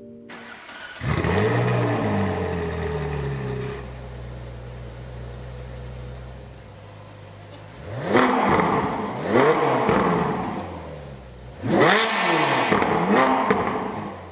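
Ferrari 458 Spider's 4.5-litre V8 starting about a second in, flaring up and settling to idle. It is then revved in two pairs of quick blips, each rising and falling in pitch.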